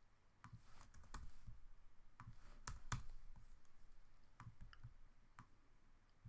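Faint, irregular clicks of a computer mouse, about a dozen scattered through, a few louder ones bunched around the middle.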